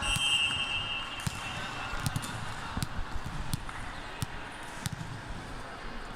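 A basketball bouncing on a court, with sharp scattered knocks and a short high squeak right at the start, like a sneaker on the floor, over crowd and court noise.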